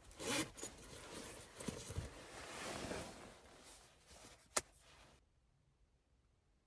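Handling noises: rustling with a few soft knocks, then one sharp click about four and a half seconds in, after which it falls quiet.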